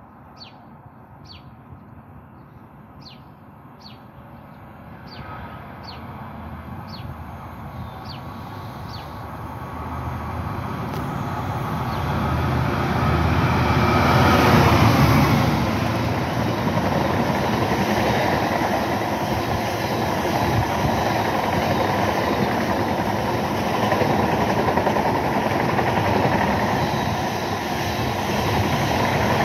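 EWS Class 66 diesel freight locomotive, its EMD two-stroke V12 engine, approaching and passing through a station. It grows louder to a peak about fifteen seconds in as the locomotive goes by, then gives way to the steady clatter and rumble of its wagons running past on the rails.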